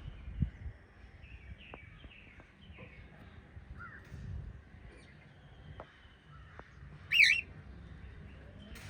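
Pet cockatiels and budgies chirping softly, with one loud shrill wavering call about seven seconds in. A low thump comes just after the start.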